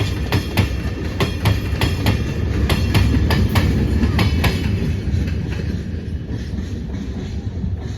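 Freight train wagons rolling past, wheels clicking in pairs over rail joints above a low rumble. The clicking stops about five seconds in and the rumble fades as the train moves away.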